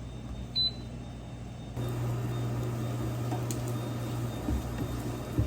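A short high electronic beep, then a microwave oven starts running about a second later with a steady low hum. A couple of light knocks come near the end.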